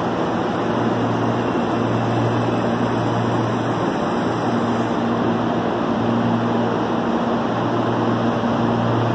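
CPTM electric commuter trains running in the station: a steady electric hum that swells and fades slightly over a broad, even rumble.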